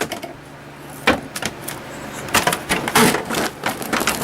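Vacuum cleaner running with a steady hum while its nozzle is worked over a computer keyboard, giving a string of irregular clicks and knocks against the keys.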